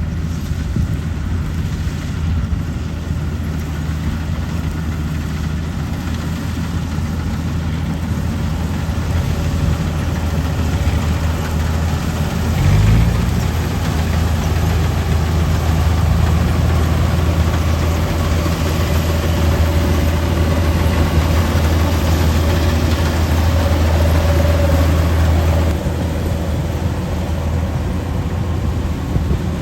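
Kubota 105 combine harvester's diesel engine running steadily under load. A short rise in pitch about halfway through is followed by a louder, steady hum, which drops back a few seconds before the end.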